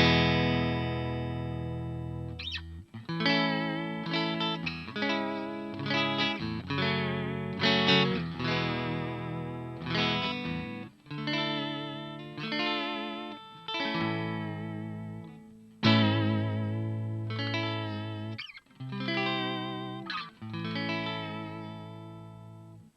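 Jolana Tornado electric guitar played through an amplifier: a ringing chord, then a series of strummed chords and picked notes, each left to decay, some with a wavering vibrato. The playing cuts off abruptly near the end.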